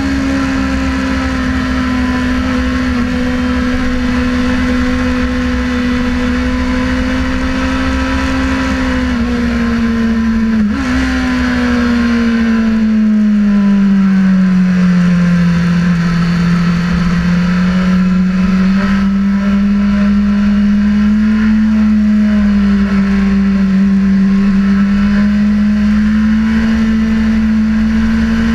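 Sportbike engine running hard and steadily on track, its note slowly sagging and climbing again through the corners. There is a brief break in the note about eleven seconds in.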